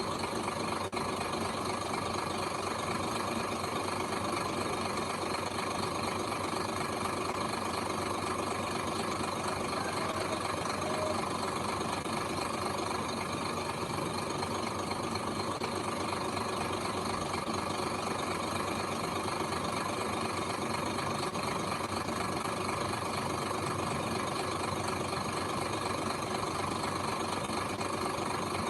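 Diesel engine of heavy earth-moving machinery running steadily at an even speed.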